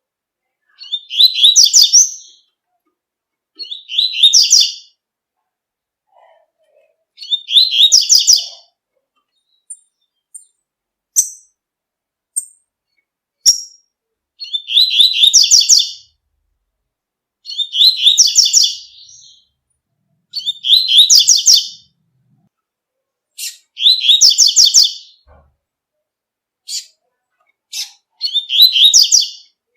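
Double-collared seedeater (coleiro) singing its 'tui-tui' song: eight short, fast phrases about every three seconds, with a few single short call notes in a pause midway.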